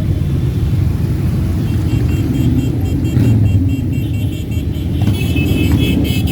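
Many motorcycle engines running in a steady low rumble as a parade rides past.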